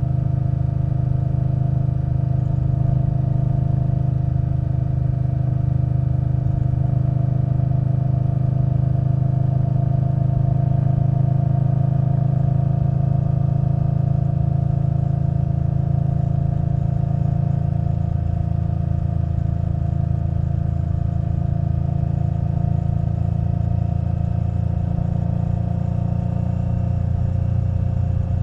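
2021 Indian Scout Bobber Twenty's V-twin engine through a Vance & Hines Twin Slash exhaust, running at a steady speed. It eases off a little about two-thirds of the way in.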